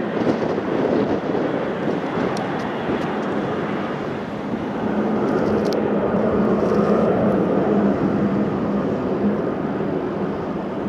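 Jet airliner engines: a steady rushing noise that swells about halfway through, when a low steady hum joins it.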